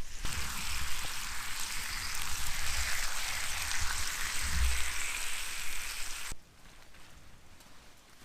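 Onions and pork steak sizzling in a cast iron skillet, a steady frying hiss that cuts off suddenly about six seconds in.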